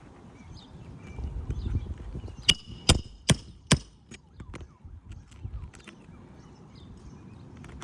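Hammer driving a roofing nail into a shingle: four quick, ringing strikes a little under half a second apart, followed by a few lighter taps.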